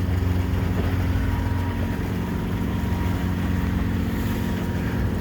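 Hunter 320 sailboat's inboard diesel engine running steadily under way, a constant hum of several tones over water and wind noise.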